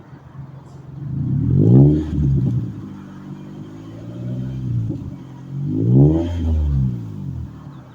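2007 Toyota Camry's engine revved through an aftermarket DC Sports muffler: idling, then two quick revs that climb and fall back, with a smaller blip between, settling back to idle near the end.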